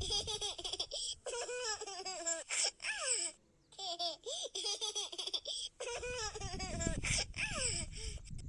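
Baby laughing in repeated giggling bouts, high and bubbly, broken by short pauses and a brief silence about three and a half seconds in.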